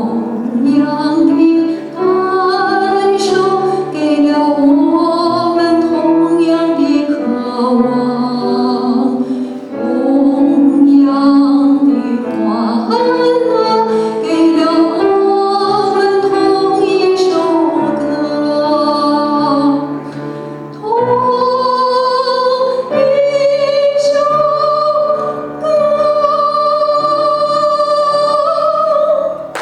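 Singing in a classical, operatic style over instrumental accompaniment. The melody moves through held, wavering notes, and the song ends on one long sustained high note over its last several seconds.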